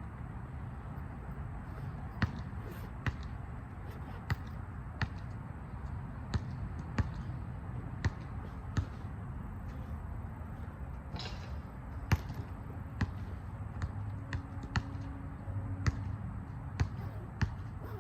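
A basketball being bounced on a hard court, sharp irregular thumps roughly once a second, over a steady low background noise.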